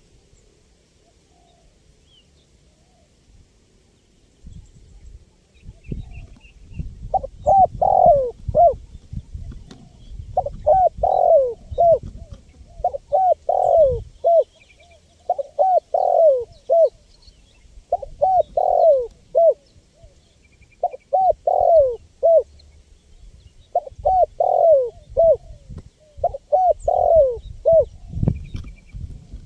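Spotted dove (tekukur) cooing: about eight short phrases of several coos each, one every two to three seconds, starting about seven seconds in.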